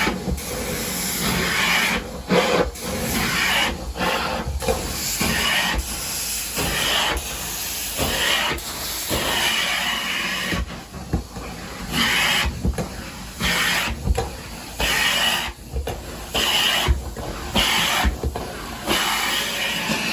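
Carpet-cleaning extraction wand hissing with spray and vacuum suction in repeated strokes, the rushing sound cutting out briefly between strokes.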